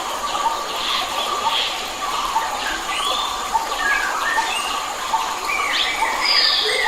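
A chorus of wild forest birds calling at once: many short chirps and whistled notes from several birds, overlapping over a steady hiss.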